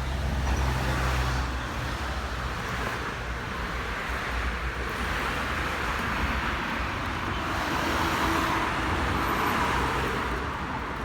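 Road traffic noise: a steady rumble of cars and tyres on the road, swelling about two seconds in and again near eight seconds.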